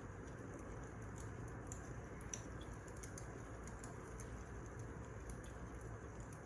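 Wood fire crackling: a steady low rumble of burning logs with scattered small, sharp pops.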